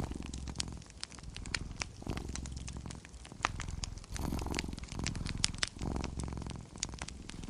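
Domestic cat purring close up, in low waves about once a second as it breathes in and out, over the sharp, irregular crackles and pops of a wood fire.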